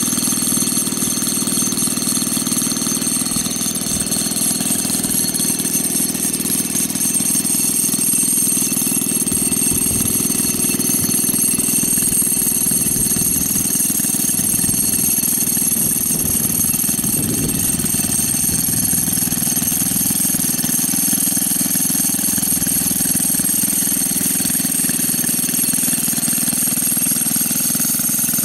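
Honda 50 water-pump engine, a small four-stroke single, running steadily on a custom board-track-style motorbike, holding an even speed throughout.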